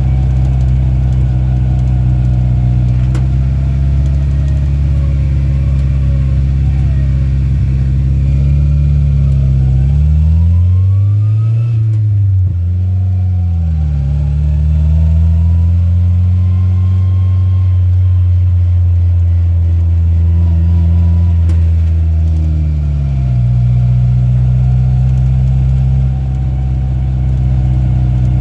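Rat rod farm truck's engine running while driving, heard from inside the cab. About ten seconds in it revs up, drops sharply as it shifts gear, then pulls up again into a steady cruise, and the pitch changes once more near the end.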